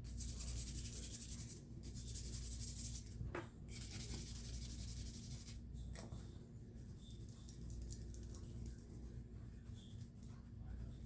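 Small cleaning tool scrubbing gunk out of a neglected folding knife: three long scratchy strokes, the last ending a little over five seconds in, then lighter, fainter scratching.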